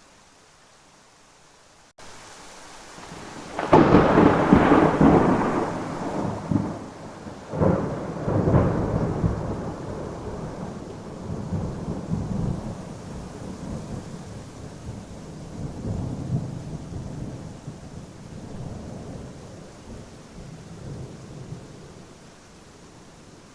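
Thunder in a rainstorm. After about two seconds of faint hiss, rain sets in. A loud thunderclap comes about four seconds in and a second crack follows about eight seconds in. The thunder then rolls on, slowly fading, over steady rain.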